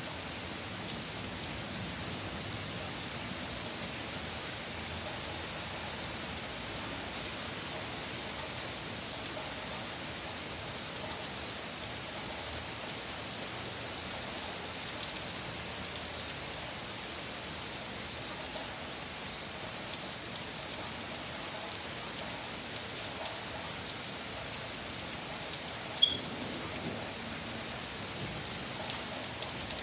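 Heavy rain falling steadily, an even dense hiss of rain on the ground and surfaces, with a single sharp tick near the end.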